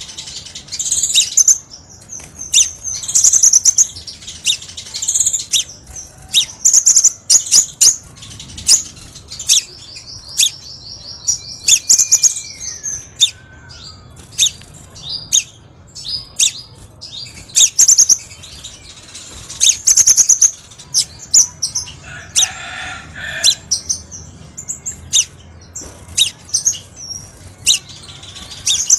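Crimson sunbird calling: a long run of high-pitched chirps and sharp ticks, with a fast trill about ten seconds in.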